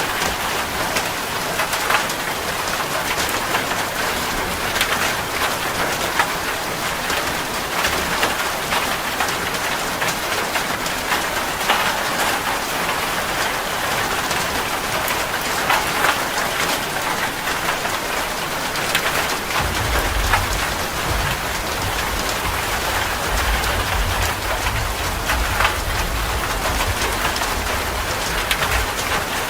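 Heavy rain drumming steadily on a metal roof, with many sharp drop strikes. A low rumble of distant thunder comes in about two-thirds of the way through and carries on.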